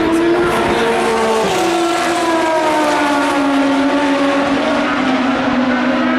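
Endurance race car engines running at speed on a circuit, several engine notes overlapping. Their pitches fall slowly, with one dropping sharply about a second and a half in.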